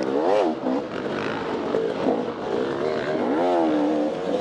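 Off-road dirt bike engine revving up and down repeatedly as the throttle is worked, with a sharp rise in pitch near the start and another about three seconds in.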